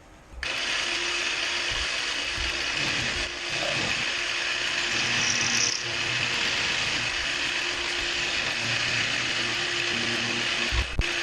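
A power tool starts about half a second in and runs steadily and loudly, with a brief dip near the end.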